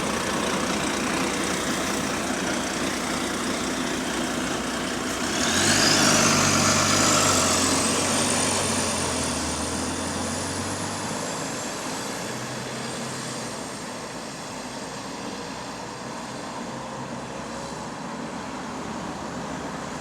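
Bus engine pulling away: a deep engine note swells about five seconds in, with a high whine that rises sharply and then keeps climbing slowly. After that the engine settles to a quieter, steady running sound.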